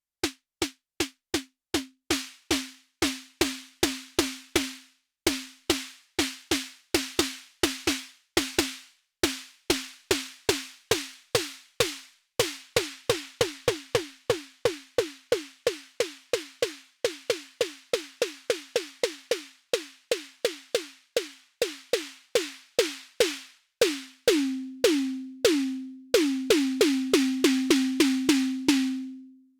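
Elektron Syntakt's SD Vintage digital snare drum engine playing a sequenced pattern of dry snare hits, each a short tuned body tone with a noisy rattle above it. From about twelve seconds in, each hit opens with a quick downward pitch drop, and near the end the body rings longer and the hits come faster.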